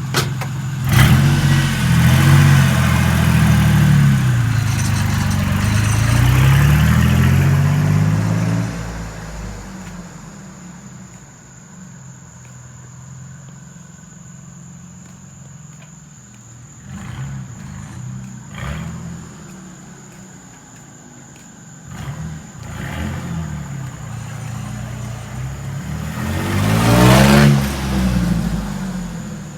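1999 Ford F150's 4.2-litre V6 running through a straight-piped turndown exhaust, revving loud as the truck pulls away and then fading off. Near the end it comes back and passes close by, swelling and falling away.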